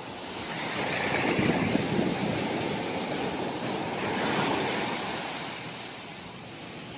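Sea surf breaking and washing onto the beach, a steady rush that swells twice and eases off toward the end.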